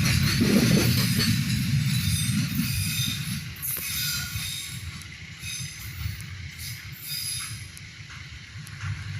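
A train running past on the rails: a low rumble with high metallic squealing and clatter from the wheels. It fades steadily from about three seconds in as the train moves away.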